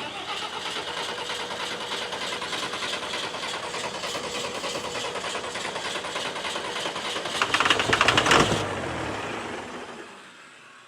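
12-valve Cummins diesel in a pulling tractor turning over with a fast, even mechanical clatter. It surges louder about eight seconds in, then winds down to a stop.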